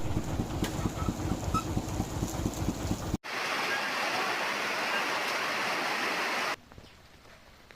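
Steady, even hiss of rain that starts abruptly about three seconds in and cuts off suddenly about a second before the end. Before it there is a rough, fluttering rumble.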